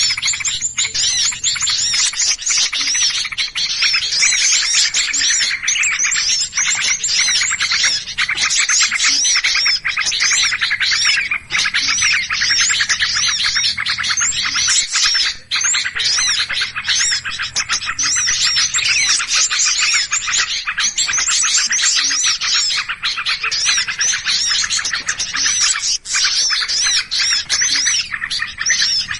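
A dense, unbroken chorus of many small songbirds chattering and chirping rapidly and excitedly: the agitated, noisy flock calls used as a bird-trapping lure call (suara pikat).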